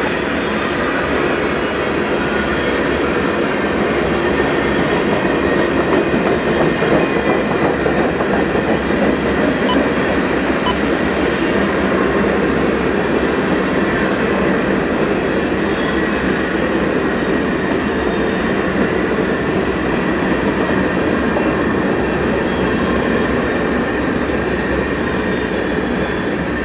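Freight train's covered hopper cars rolling past: a steady rumble and clatter of steel wheels on rail, with a faint high wheel squeal. The sound eases off near the end as the last car goes by.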